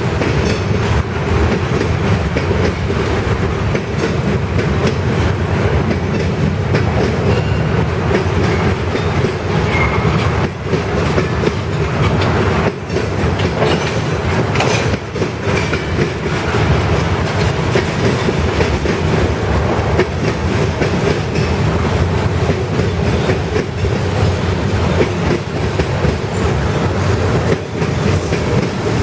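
Freight train cars rolling past at steady speed, with a continuous rumble of wheels on rail and frequent clicks as the wheels cross rail joints.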